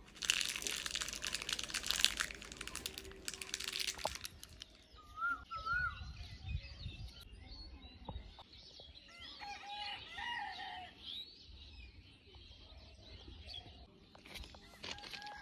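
Dense crackling rustle for about the first four seconds, then several small birds chirping and calling in short rising and falling notes.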